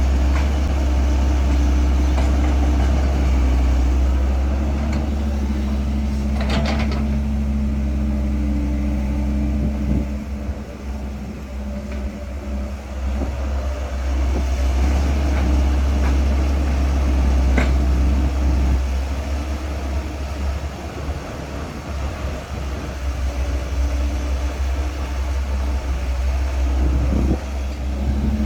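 Caterpillar 312 hydraulic excavator's diesel engine running, a deep steady rumble with engine tones that shift up and down as the load changes, and two sharp clanks, about a quarter and about two thirds of the way in.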